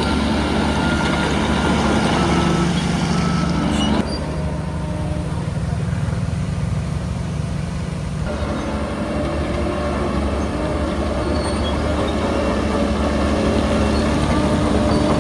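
Diesel engine of heavy earthmoving machinery running steadily. The higher clatter cuts out abruptly about four seconds in, leaving a deep hum, and comes back about four seconds later.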